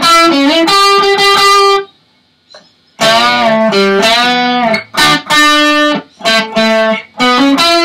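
Electric guitar playing a lead phrase of single notes with string bends, hammer-ons and slides. It stops for about a second near the two-second mark, then carries on.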